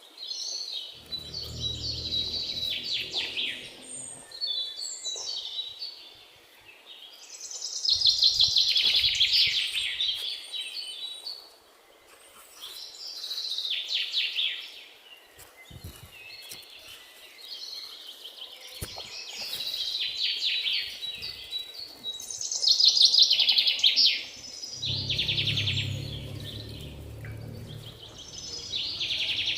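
A songbird singing, repeating a rapid trilled phrase every few seconds, with a low rumble about a second in and again near the end.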